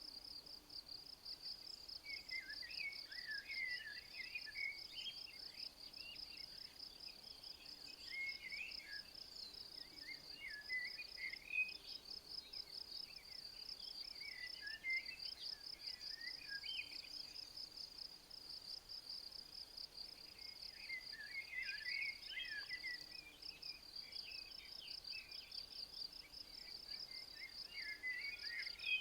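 Insects stridulating in a steady, fast high-pitched pulse, with a songbird singing short warbling phrases every few seconds over it.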